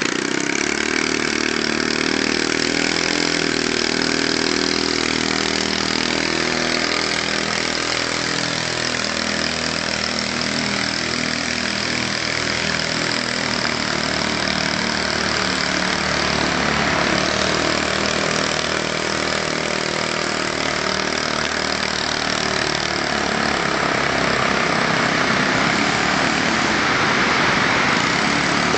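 Small engine of a three-wheeled eco-marathon prototype car running steadily as the car is driven, with a constant loud hiss over it; the engine's hum is clearest in the first half, while the car is close.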